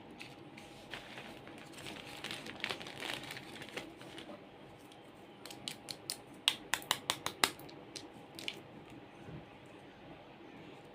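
Plastic toys being handled: soft rustling and rubbing, then a quick run of about ten sharp plastic clicks and taps a little past the middle.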